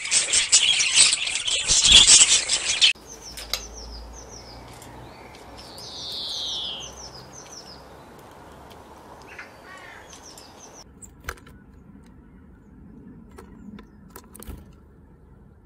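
Wild birds calling, in several short clips joined by abrupt cuts. First comes a loud, dense, high-pitched chattering for about three seconds. Then scattered chirps with a longer falling call, and after another cut only faint clicks and ticks.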